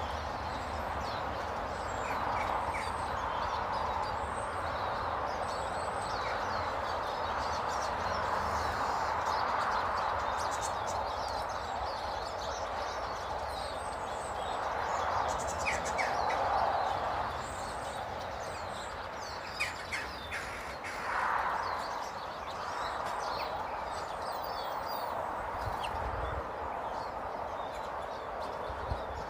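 Small birds chirping in short, scattered calls at a bird table, over a steady background noise that swells now and then.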